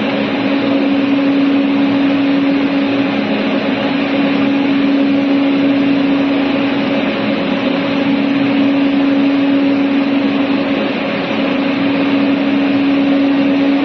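A steady machine hum, one low droning tone over an even hiss, unchanging throughout.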